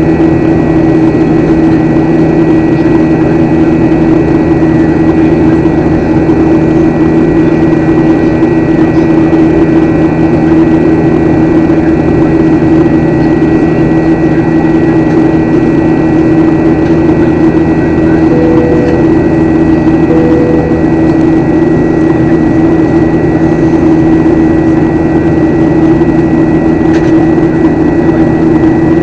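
Jet airliner cabin noise in flight: a loud, steady drone of engines and airflow with a steady hum through it. About two-thirds of the way through come two short, faint tones in quick succession.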